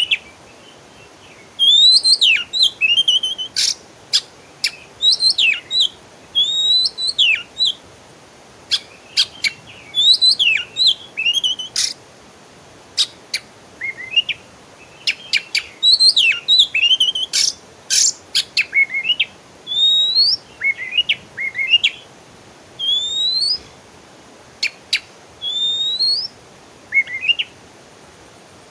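Songbird singing in quick bursts of chirps and whistled notes, many sweeping upward, mixed with sharp clicks, with short pauses between phrases.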